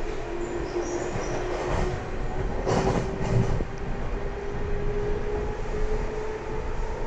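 811 series electric train running, heard from inside the car: a steady rumble of wheels on rail under a single whine that climbs slowly in pitch, as when the train picks up speed. About three seconds in there is a brief louder rush.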